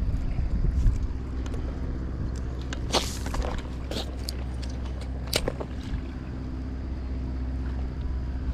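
An engine running steadily at a low idle, with a few sharp clicks or knocks about three, four and five seconds in.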